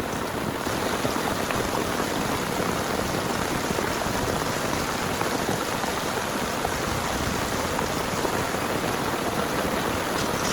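Heavy rain falling, a steady, even hiss of drops with no let-up.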